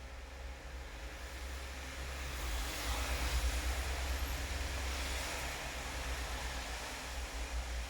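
Rain falling, a steady hiss over a low rumble that swells louder a couple of seconds in and eases a little near the end.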